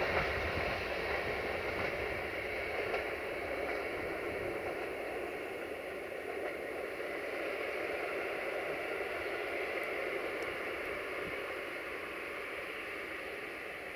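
Passenger train's coaches rolling away on the track, a steady rushing noise whose deep rumble dies away and which slowly fades as the train recedes.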